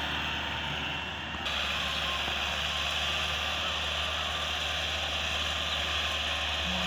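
Tractor engine running steadily under a constant low drone, with an abrupt shift in the sound about a second and a half in.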